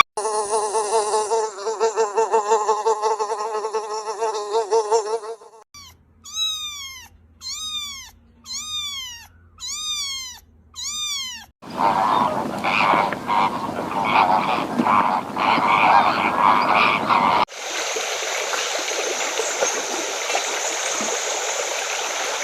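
A run of separate animal-call recordings: first a fast pulsing, croaking trill, then six short falling chirps about one a second, then a rough buzzing, and from about two-thirds of the way in a steady high, insect-like hiss.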